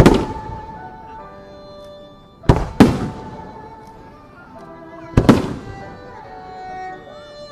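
Aerial firework shells bursting with sharp booms: one at the start, a pair about two and a half seconds in, and another pair about five seconds in, each trailing off. Music plays underneath throughout.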